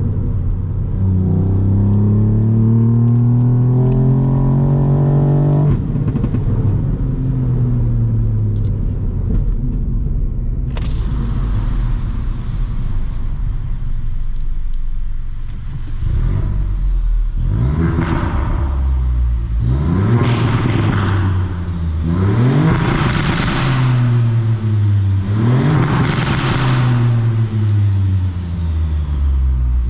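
Ford Fiesta ST Mk8's turbocharged 1.5-litre three-cylinder with a Milltek exhaust, heard on board while driving. The engine pulls up through the revs for about five seconds, drops at a gear change and then winds down. In the second half it revs up and falls back four or five times in quick swells.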